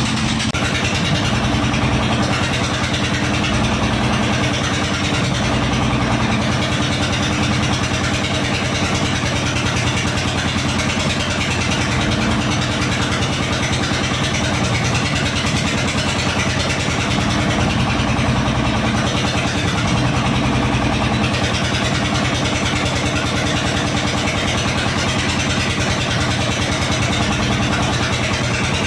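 Small engine of a plastic-drum fishing boat running steadily at an even speed, with a constant low throb.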